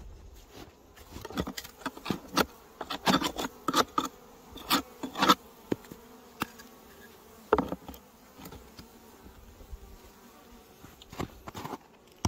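Honey bees buzzing at the hive entrance, a faint steady hum, under a run of sharp knocks and scrapes on the hive, most of them between about one and five seconds in, with a few more later. The colony's buzz is the sign that it is still alive after the snowstorm.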